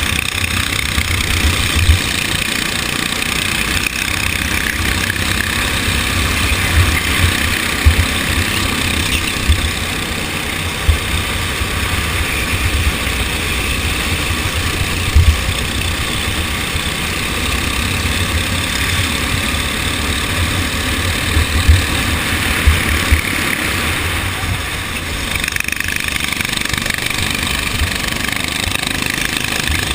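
Go-kart engine running under race conditions, its pitch drifting up and down with the throttle, over heavy low rumble and occasional thumps.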